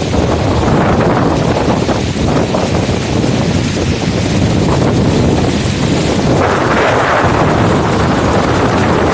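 Heavy rain pouring down with wind buffeting the microphone, a loud steady rushing noise that swells briefly about six and a half seconds in.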